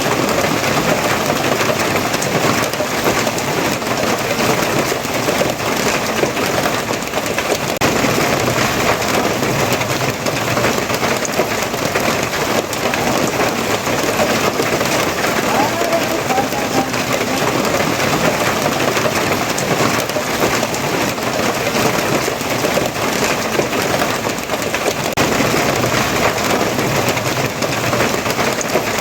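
Steady, dense rainfall hissing and pattering without letup.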